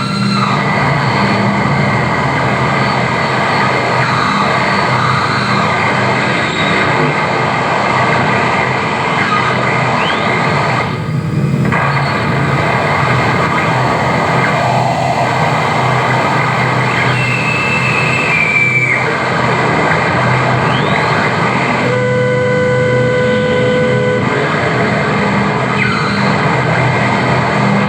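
Harsh noise wall: a loud, unbroken wall of distorted electronic noise with no rhythm, with short rising feedback whistles and a held tone about two-thirds of the way through.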